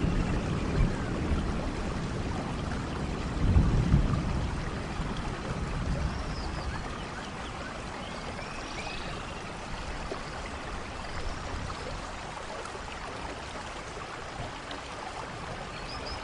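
Steady rain falling, with low rumbling swells near the start and about three and a half seconds in, and faint high chirps now and then.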